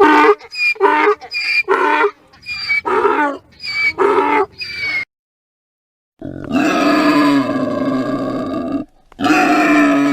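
Animal calls: a rapid series of short calls, then after a brief pause two long drawn-out calls.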